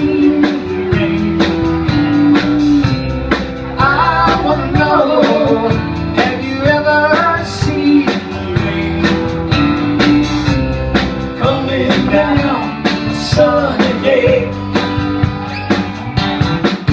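A band playing a country-rock song: guitars, bass and a steady drum beat, with singing coming in and out.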